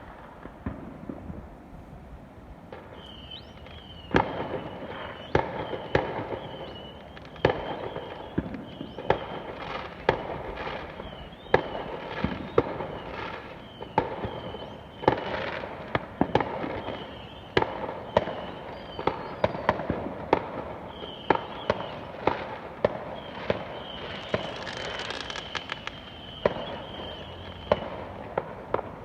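Fireworks going off: a long run of sharp bangs and cracks, about one or two a second, starting a few seconds in. A high, steady whistling tone runs beneath them almost throughout.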